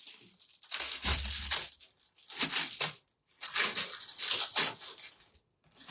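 Packaging being handled and crinkled in several separate bursts, with a dull bump about a second in.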